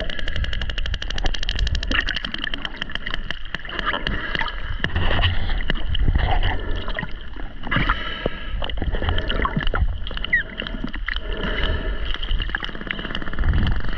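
Sperm whale echolocation clicks heard underwater: a fast train of clicks at first, then clicks at an uneven pace, as the whale scans the diver with its sonar, over a low rumble of water.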